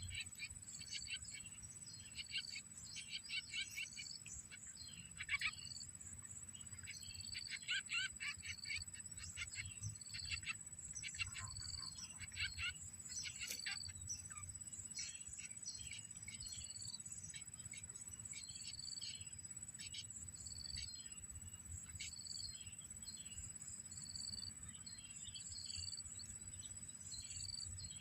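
Small birds chirping: dense bursts of rapid high chirps in the first half, then a short high note repeated every second or so. A steady thin high-pitched tone and a low rumble run underneath.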